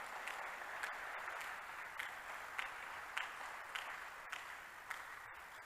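A congregation applauding, a steady patter of many hands with a few single claps standing out, fading away toward the end.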